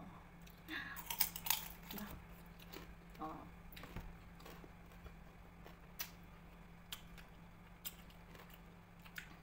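People chewing and biting food close to the microphone: scattered soft clicks and small crunches, with a couple of brief murmured vocal sounds near the start and a faint steady hum underneath.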